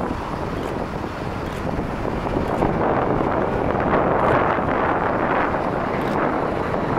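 Wind buffeting the microphone over the steady rumble of airliner jet engines, which swells a few seconds in.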